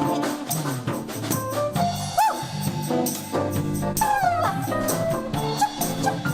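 Live jazz band playing an instrumental passage between sung lines, with drum kit keeping a steady beat under held bass notes. A couple of sliding, bending melodic notes come in about two and four seconds in.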